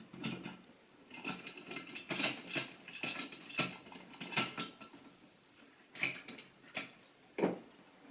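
Irregular clicking and light metallic rattling from model railway rolling stock on the track, in clusters, busiest in the first half.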